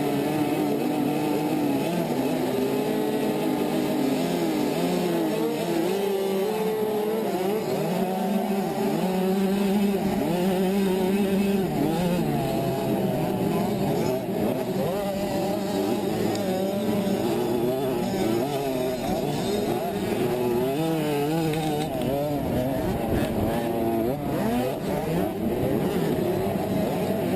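65cc two-stroke motocross bike engines racing, their pitch rising and falling continually as the throttle opens and closes, with more than one engine heard at once.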